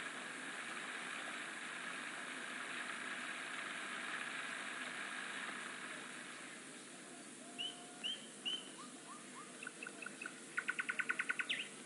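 Steady hiss that fades out over the first half, then small birds calling: a few short separate chirps, then a quick trill of about ten notes near the end.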